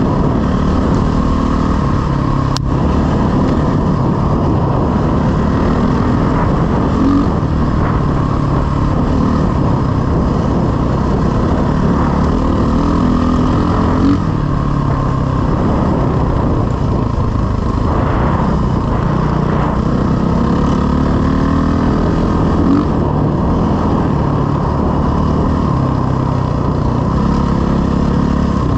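Dirt bike engine running steadily under way, its revs rising and falling as the rider works the throttle.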